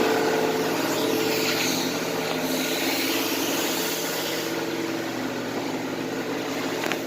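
An engine running steadily at idle, with a spell of hiss through the middle and a short click near the end.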